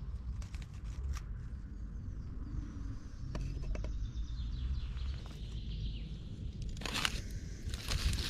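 Outdoor forest ambience: birds chirping faintly over a steady low rumble, with scattered clicks and a cluster of sharp clicks and rustles near the end.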